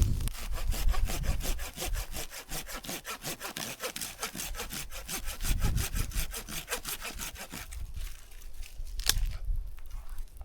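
Hand saw cutting wood in quick, even strokes, about four to five a second, which stop about eight seconds in. A single sharp knock follows about a second later.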